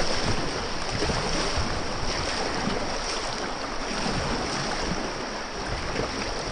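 Whitewater of a river rushing steadily, with gusty rumble of wind on the microphone.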